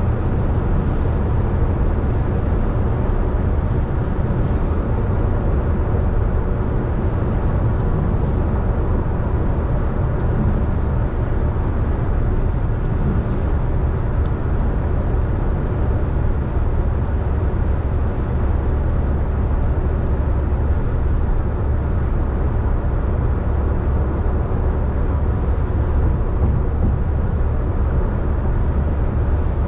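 Car driving on a wet road: a steady low rumble of engine and tyre noise.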